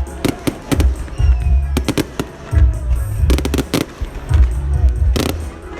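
Fireworks bursting, many sharp bangs and crackles in quick irregular succession, over loud music with a steady bass beat.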